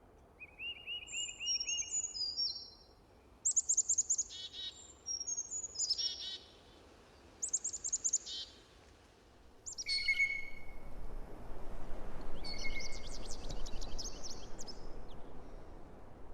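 Birds chirping and singing: a string of short, high-pitched chirps, trills and whistled phrases, one after another, with a soft noisy hiss rising underneath from about ten seconds in.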